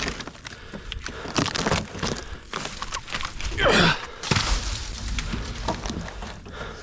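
Cut oak logs being tossed and handled: a series of irregular wooden knocks and thuds, with a drawn-out sound falling in pitch about halfway through.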